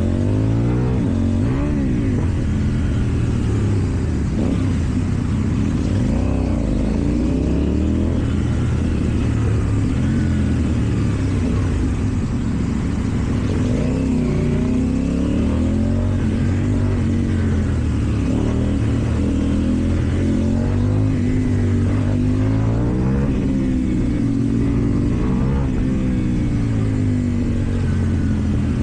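KTM Duke 790 parallel-twin engine through an Akrapovič exhaust, accelerating and rolling off over and over, its pitch rising and falling many times in quick succession while riding in traffic.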